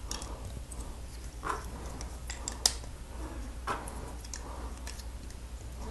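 Plastic Lego pieces clicking and tapping as parts are handled and pressed onto the truck's chassis: a handful of separate sharp clicks, the loudest about two and a half seconds in, over a faint low hum.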